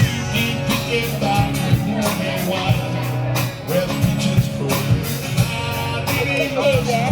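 A live rock band playing: a singer over guitar, bass and drums keeping a steady beat.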